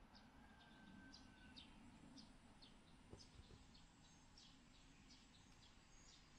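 Near silence, with faint scattered bird chirps, several a second.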